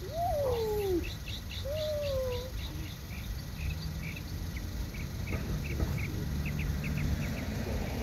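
Birds calling: two low, smooth cooing notes near the start, the first rising then falling, and a steady run of short high chirps at about four or five a second.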